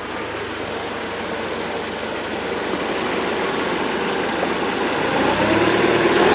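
Mercedes-Benz W202 C200 four-cylinder engine running in the engine bay, its revs rising towards the end. The high whine that comes on with higher revs is not yet present.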